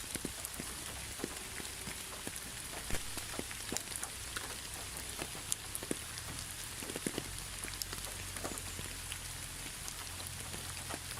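Steady rainfall, with many separate drops ticking sharply on a surface at irregular moments over a constant hiss.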